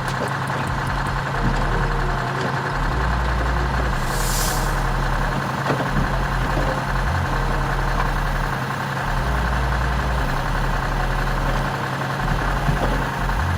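Heavy diesel machinery of a log-loading job, a Caterpillar 568 log loader and a Kenworth 850 logging truck, running steadily. A short burst of released air hisses about four seconds in.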